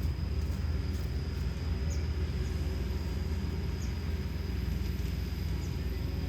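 Kobelco SK210LC excavator's Hino J05E-TG turbo-diesel engine running steadily: a continuous low rumble with a thin, steady high tone above it.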